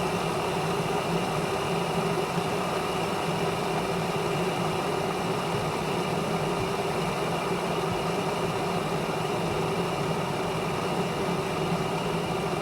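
Glass electric kettle heating water near the boil: a steady rushing hiss over a constant low hum as bubbles start to form.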